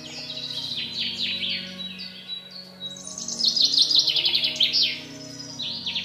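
Birdsong: quick repeated chirps and fast trills, loudest from about three to five seconds in, over a soft steady music drone.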